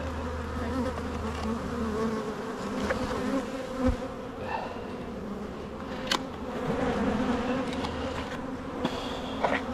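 Honeybees buzzing steadily around an open hive, a dense swarm-like drone. A few sharp clicks and knocks come through, the loudest about six seconds in, from frames and hive woodenware being handled.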